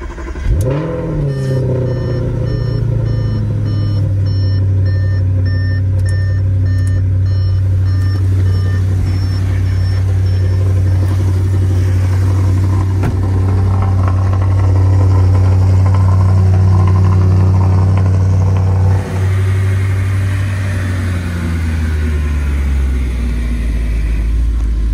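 Audi RS5's 4.2-litre V8 on a cold start: it catches with a quick rising flare and then holds a steady, high fast idle. A repeated electronic chime beeps over it for the first several seconds, and near the end the idle steps down to a lower, deeper note as the engine settles.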